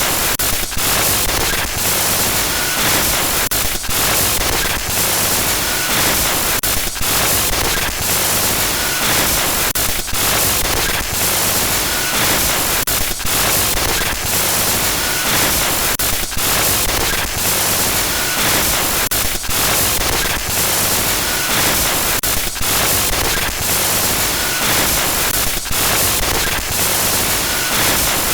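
Loud, continuous glitchy static noise: harsh full-range hiss that stutters with frequent brief dropouts, and faint short beeps now and then.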